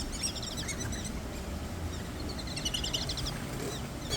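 Small birds chirping in quick, high twittering runs, once near the start and again about three seconds in, over steady outdoor background noise.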